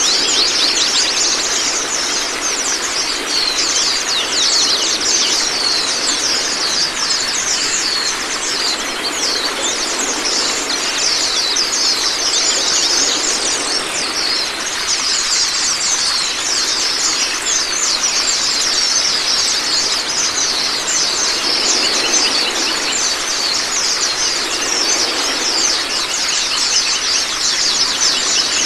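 White-eye (pleci) song as a continuous, very fast high twittering, over a steady rush of running water.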